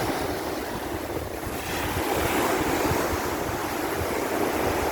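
Sea waves washing onto a beach, with wind on the microphone. The wash eases briefly and swells again about two seconds in.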